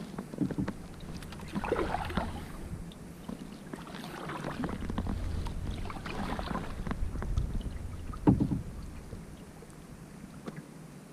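Kayak paddle strokes splashing through the water about every two seconds, with wind rumbling on the microphone.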